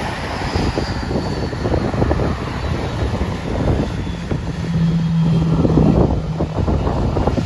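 Jet engines of a departing Southwest Boeing 737-700 (CFM56-7B turbofans), a steady loud rumble with a high whine falling in pitch over the first couple of seconds. Wind buffets the microphone.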